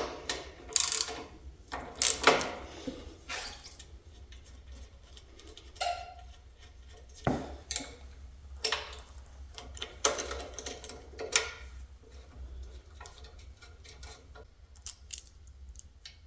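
Hand tools and small metal parts of a band saw's lower blade guide clicking, clinking and scraping in irregular short bursts as the guide is worked loose, over a steady low hum.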